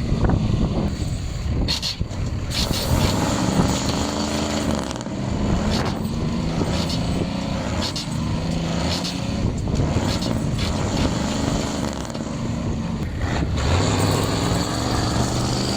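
Truck engine running, its pitch rising and falling over and over as the revs go up and down, with a few sharp clunks along the way.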